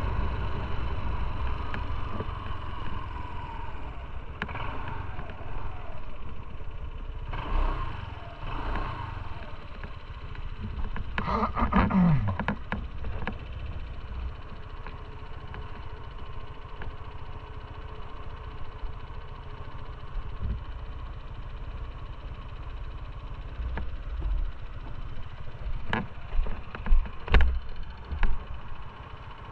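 Motorcycle running on the road with steady engine rumble and wind noise. About twelve seconds in the engine note drops quickly as the bike slows, and a few sharp knocks come near the end.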